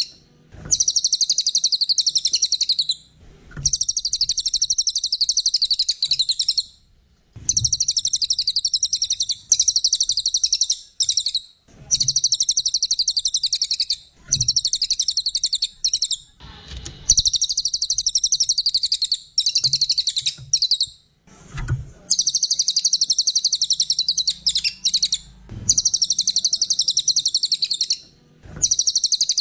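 A small songbird singing in long, rapid, high-pitched chattering phrases, each lasting two to four seconds and repeated about eight times with short pauses between them.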